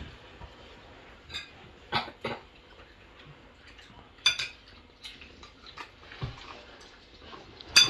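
Cutlery clinking against plates during a meal: a few short, sharp clinks, scattered and spaced a second or more apart.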